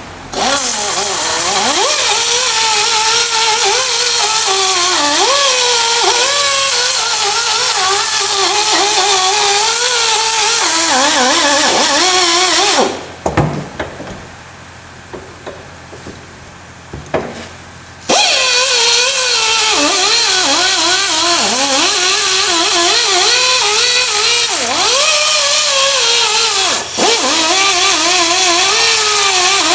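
Power grinder working a small metal part. The motor's pitch wavers and dips as it is pressed into the work. It stops for about five seconds near the middle, then runs again.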